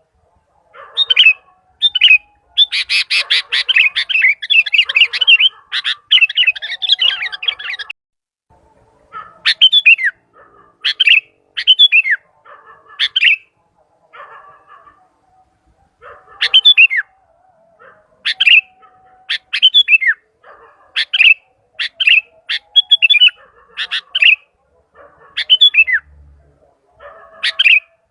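Sooty-headed bulbul (kutilang) calling: a dense run of rapid chattering notes for several seconds, then short, sharp whistled notes in quick clusters of two or three, repeated every second or two.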